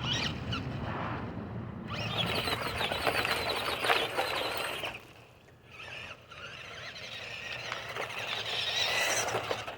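Radio-controlled car running in two spells, its motor whining high with a squealing edge. It drops off about halfway through and picks up again.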